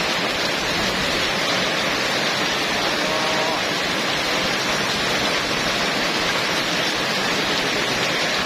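Heavy downpour driven by strong wind, a steady, dense rush of rain.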